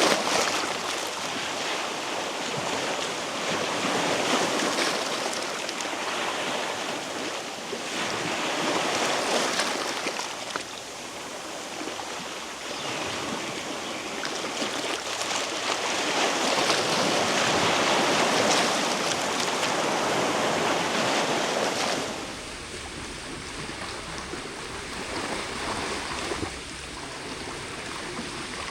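Sea waves washing onto a rocky shore, a steady rush of surf that swells and ebbs every few seconds. About three quarters of the way through it drops to a quieter, even rush.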